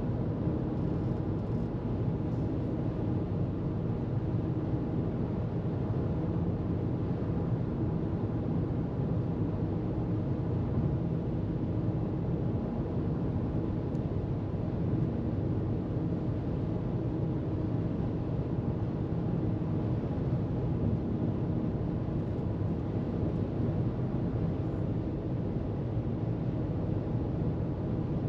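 A car travelling at freeway speed: steady road and tyre noise with a low, even drone and no change in pace.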